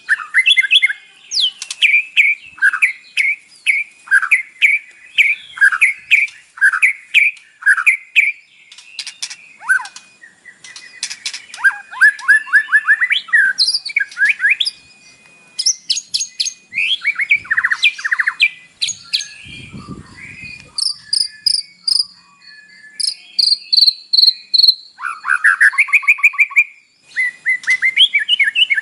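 White-rumped shama singing a long, varied song of loud whistles, rapid trills and clicking notes. The song includes mimicked phrases of other birds (isian). It opens with a run of repeated notes, about two a second.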